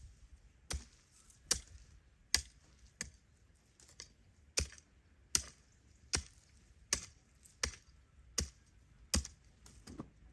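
Steady blows of a hand tool, about a dozen sharp strikes, roughly one every three-quarters of a second.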